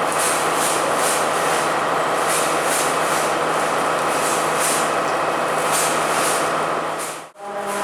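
Train running through a railway station: a steady engine hum under a dense rolling noise with repeated clacks of the wheels. The sound cuts off abruptly near the end.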